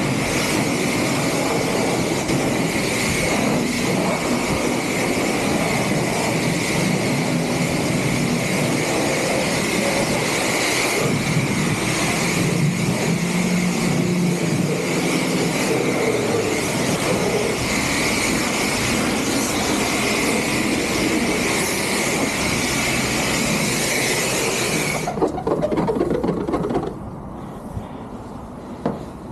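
Car wash equipment running: a loud, steady rushing noise with a high whine through it. It cuts off suddenly about 25 seconds in, leaving a quieter hum with a couple of short knocks.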